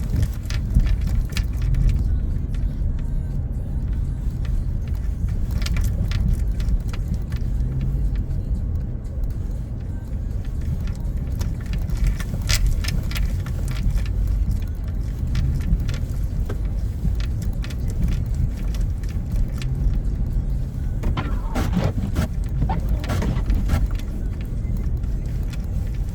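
A car driving: steady low engine and road rumble with scattered light clicks and taps.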